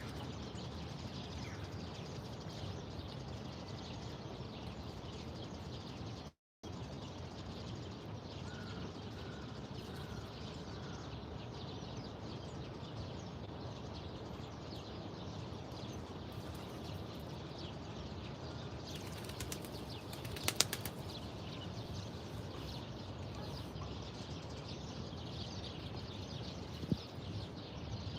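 Outdoor city-park ambience: a steady background rush with a few faint, short bird chirps, and a quick run of sharp clicks about twenty seconds in. The sound cuts out completely for a moment about six seconds in.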